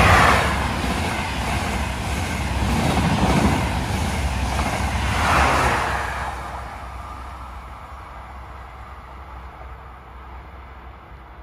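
A train passing at speed close to the track: loudest right at the start, a second surge about five seconds in, then a low rumble fading away as it recedes.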